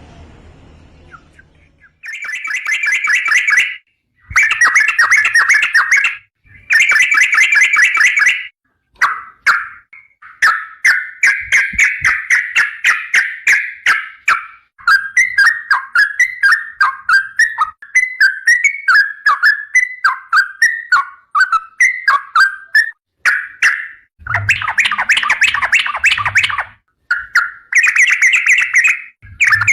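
Yellow-vented bulbul (trucukan) in full song: several loud bursts of rapid chattering notes with short breaks between them, then a long unbroken run of quick warbling notes, then two more dense chattering phrases near the end.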